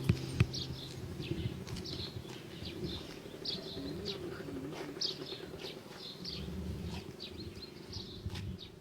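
Small birds chirping and twittering in quick, short calls over a faint low sustained tone, everything slowly growing quieter.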